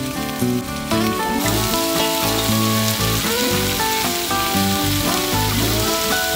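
Peppers and chilies sizzling in a hot wok, the sizzle growing thicker about a second and a half in, over background music with a melody.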